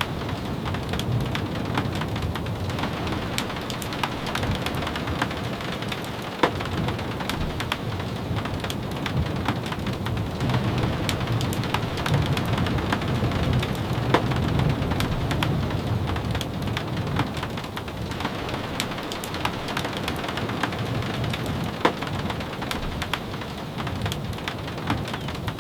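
Steady rain falling, with many small sharp taps of drops and a few louder single ticks. A low rumble swells and fades in the middle.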